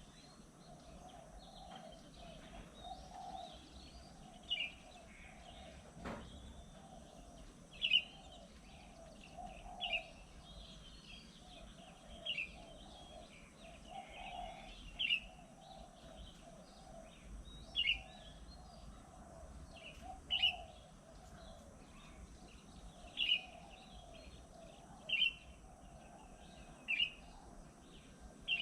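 Birds calling outdoors: a short, sharp call repeated about every two seconds, over a steady lower background of chatter.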